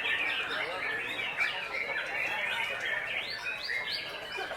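Several caged white-rumped shamas (murai batu) singing at once in a contest, a dense chorus of overlapping rising and falling whistles and chattering phrases.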